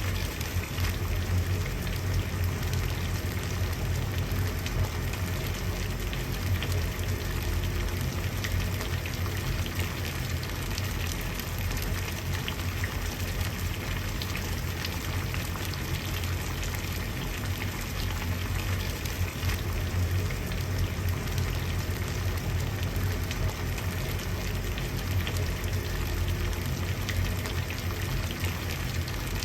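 Water at a steady rolling boil: continuous bubbling and crackling over a low rumble.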